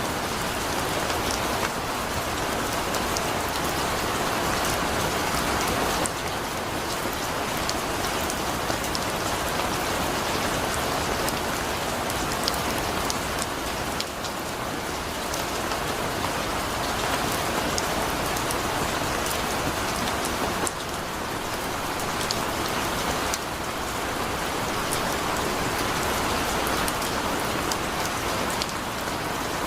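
Heavy rain falling steadily, a dense hiss of rain on surfaces with many individual drop ticks.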